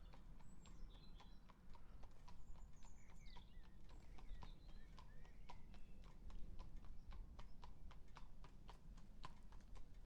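A horse's hooves clip-clopping on the road as it walks past, a steady run of sharp hoof strikes several times a second.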